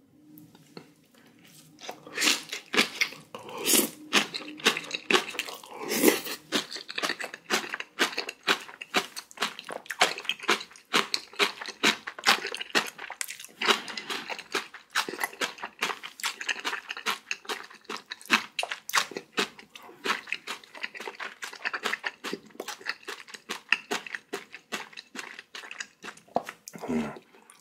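Chewing of a big mouthful of kimchi: a dense run of quick, crisp crunches that starts a second or two in and goes on steadily, a few louder crunches near the start.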